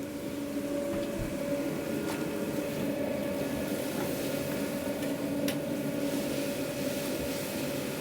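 Steady mechanical hum of food-truck kitchen equipment, an even drone with two held tones, with a few faint clicks and taps.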